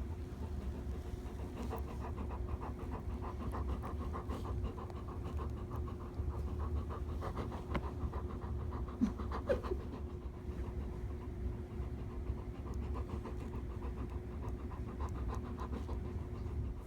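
Young female Labrador panting rapidly and steadily, with a faint steady hum underneath.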